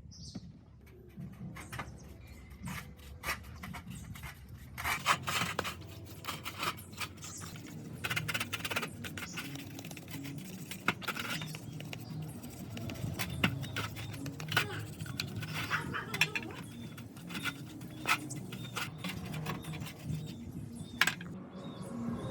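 Irregular metal clinks, knocks and scraping from hand work on small engine-pump parts, denser and louder from about five seconds in.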